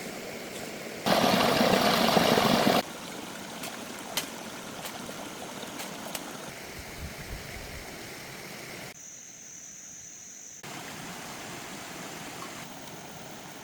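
Running water, a steady rushing hiss, that turns much louder for about two seconds near the start and cuts back abruptly. Faint scattered clicks, and a thin steady high tone for a couple of seconds past the middle.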